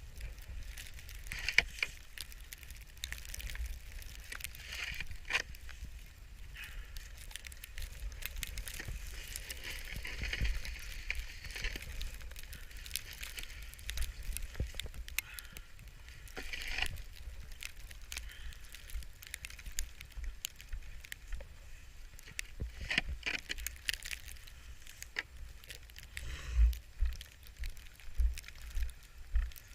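Irregular crunching and crackling of feet moving through deep snow, with wind buffeting the microphone in low gusts, strongest near the end.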